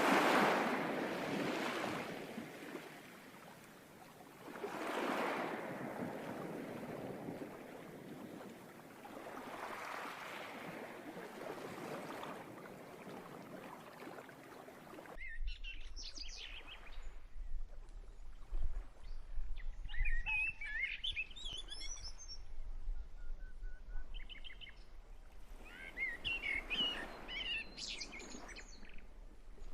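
Waves washing in, a swell about every five seconds; about halfway through it cuts abruptly to birds chirping and calling.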